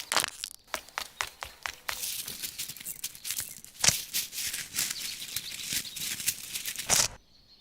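Rapid clicking and rattling of small hard objects, sparse at first and then a dense run that stops suddenly about seven seconds in.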